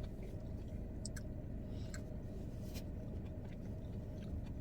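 Person chewing food, with a few faint, short wet mouth clicks over a steady low hum.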